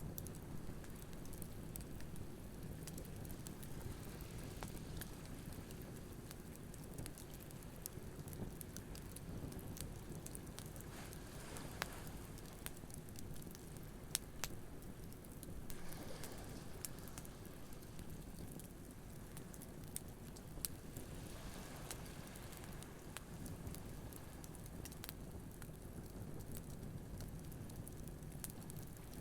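Wood campfire crackling, with scattered sharp pops, over a steady low wash of ocean waves that swells now and then.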